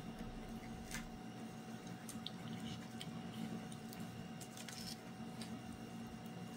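People chewing a sandwich: faint wet mouth clicks and smacks scattered through, over a steady low hum.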